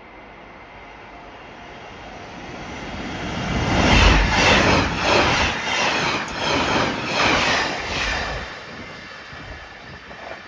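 JR Hokkaido 789 series electric limited express train passing through a station at speed. It builds as it approaches and is loudest about four seconds in, then gives a run of evenly spaced wheel clacks as the cars go by, fading after about eight seconds.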